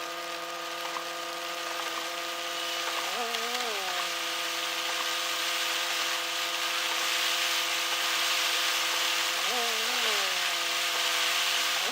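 Car engine droning steadily while driving, its pitch wavering briefly twice, about three seconds in and near the end, over a steady hiss of rain and wet road.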